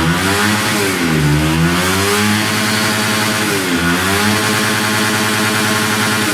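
Honda CBR150R's 150 cc single-cylinder four-stroke engine revving hard and held high, with the revs dropping briefly and climbing back twice. The engine has had its rev limit raised to 12,000 rpm.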